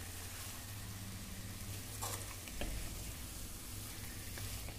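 Spice-coated mutton gently sizzling in an earthenware pot while it is stirred with a wooden spatula, giving a steady hiss with a couple of soft scrapes about two seconds in, over a low steady hum.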